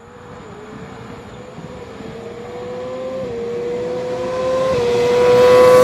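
Two sport bikes, a 2007/08 Suzuki GSX-R1000 and a supercharged Kawasaki Ninja H2, at full throttle in a drag race. The engine note climbs steadily, dips briefly at upshifts about three and five seconds in, and grows much louder as the bikes approach.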